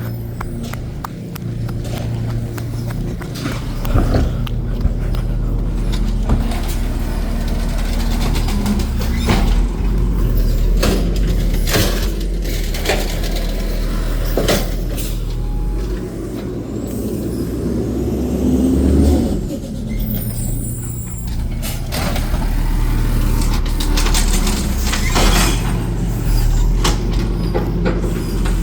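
Garbage truck's diesel engine running steadily, with repeated sharp clanks and hisses over it as the truck works.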